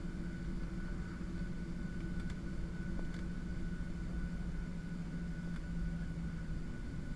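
Steady drone heard on board a Boeing 737-700 jetliner, engine and airflow noise with a constant low hum and a faint steady high whine.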